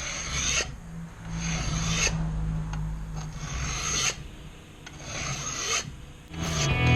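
Metal file drawn in several light strokes, about a second each, along the edges of a Stanley No.112 scraper plane's cast-iron sole, breaking the sharp edge left by sanding so it won't dig into the wood. Music comes in near the end.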